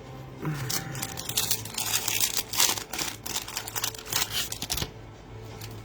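Trading-card packaging being torn open and crinkled: a dense run of crackling and rustling for about four seconds that stops shortly before the end.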